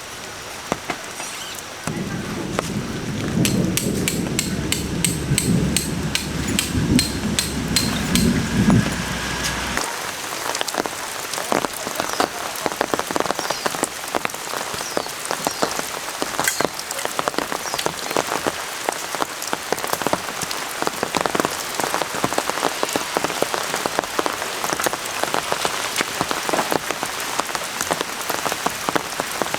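Rain falling, many drops pattering steadily on a surface. A low rumble runs under it for the first third and then stops.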